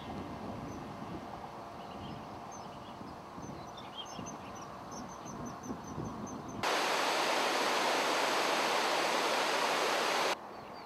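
Faint high bird chirps over outdoor background noise. About two-thirds of the way in, a loud steady hiss cuts in abruptly, drowning everything, and stops just as suddenly some three and a half seconds later.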